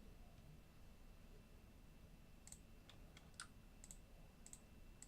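Faint computer mouse clicks, about half a dozen short clicks in the second half, over near-silent room tone.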